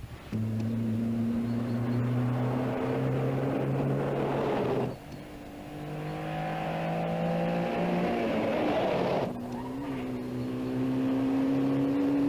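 Rally car engines running hard at high revs, their pitch climbing slowly as the cars accelerate. The sound breaks off and changes abruptly twice, about five and nine seconds in, each time picking up on another stretch of engine noise.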